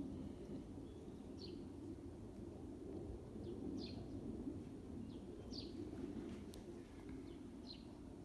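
Short, high chirps repeating about once a second, each a quick downward sweep, over a steady low background rumble.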